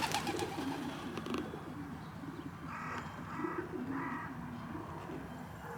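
Pigeons cooing: low, wavering coos from several birds, with three short higher-pitched calls about three to four seconds in.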